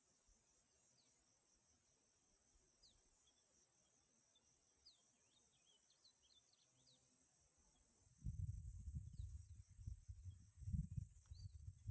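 Faint steady high-pitched insect chirring with a few short bird chirps. About eight seconds in, a loud low rumbling starts buffeting the microphone.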